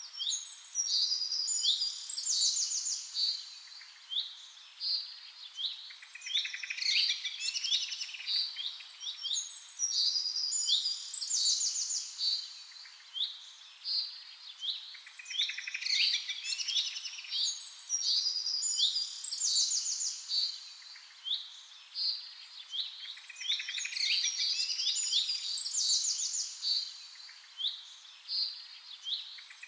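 Cockatiel chirping and whistling: rapid high-pitched chirps, quick falling notes and buzzy trills in busy bursts that come back roughly every eight to nine seconds.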